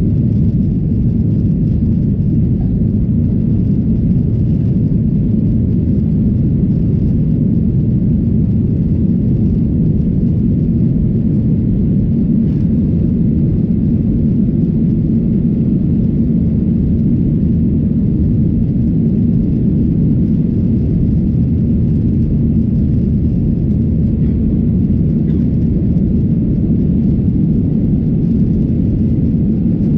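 Boeing 737-800 cabin noise: a steady, loud low rumble from the CFM56-7B engines and the airframe, unchanging throughout.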